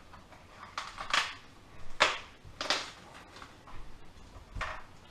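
Roasted chicken carcass being pulled apart by hand: about six short crunches and cracks of bone and crisp skin, the loudest about two seconds in.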